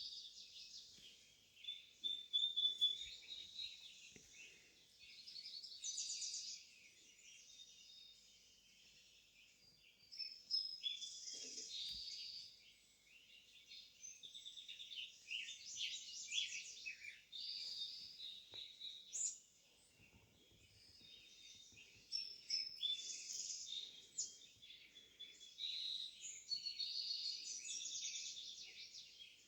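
Several songbirds singing from a live bird feed: overlapping chirps and quick trills in short phrases with brief pauses between, the loudest bursts about two to three seconds in.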